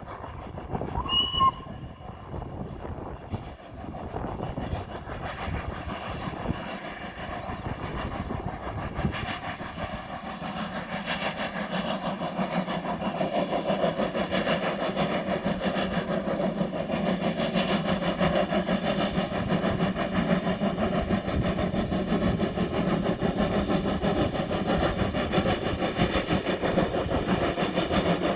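NER J27 0-6-0 steam locomotive approaching: a short whistle blast about a second in, then the engine's exhaust and running noise growing steadily louder as it comes closer.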